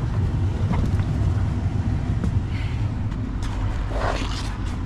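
Truck engine idling with a steady low rumble, while a few light clicks and a brief rustle about four seconds in come from items being handled inside the cab.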